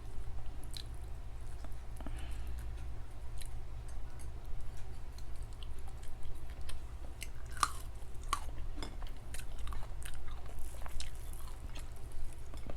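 Close-miked chewing and crunching of food, with scattered sharp mouth clicks and crackles.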